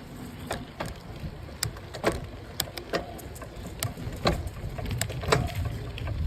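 Wind buffeting the microphone during a bike ride, a low rumble with irregular sharp clicks and rattles, roughly two a second.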